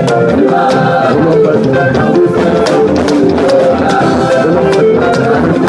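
Church choir singing an anthem with drums and a shaker keeping a steady beat.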